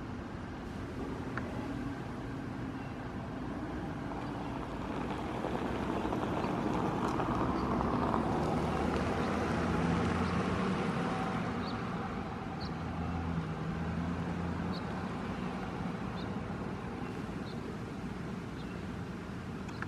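A vehicle running, swelling louder through the middle and then easing off, with a few short high chirps over it later on.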